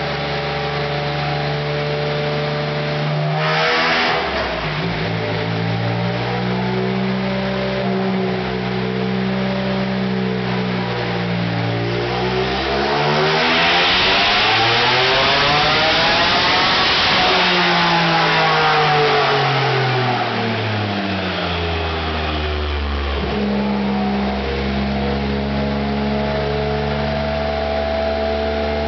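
Single-turbo Porsche 911 flat-six with custom headers and exhaust idling, with a quick throttle blip a few seconds in. About halfway through the revs climb slowly, peak loudest, then fall back to a steady idle.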